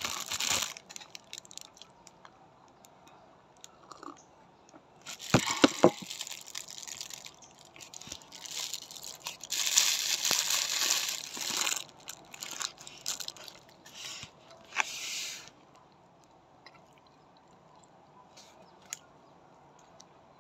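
Mouth sounds of someone chewing soft cranberry bread, with several loud bursts of plastic bag crinkling in the middle as the bread is torn and handled. It goes quieter for the last few seconds.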